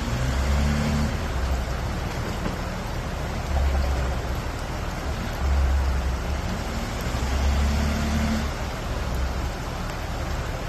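A 4x4's engine rumbling low as it crawls a trail, swelling four times as the throttle is pressed.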